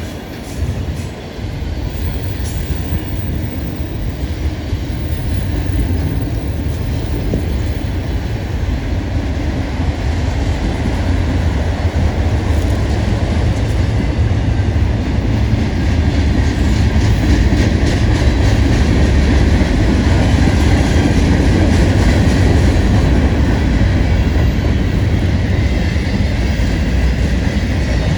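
Freight cars of a long manifest freight train rolling past with a steady, heavy rumble of steel wheels on rail, growing louder over the first half and then holding.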